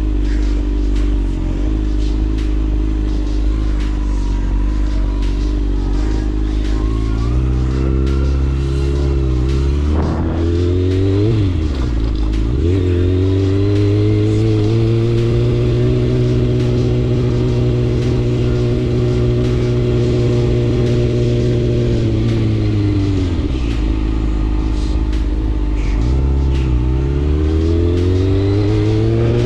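Motorcycle engine running under way. Its pitch steps up about a quarter of the way in, dips and climbs again through a gear change near the middle, and holds a steady cruise for about ten seconds. It then falls away and builds again near the end.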